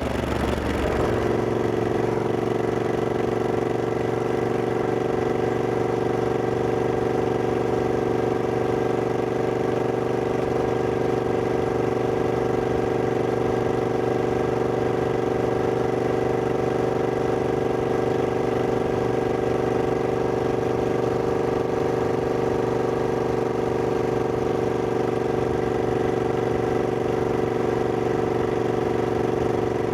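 Triumph Scrambler 1200X's 1200 cc parallel-twin engine dropping in revs during the first second, then idling steadily.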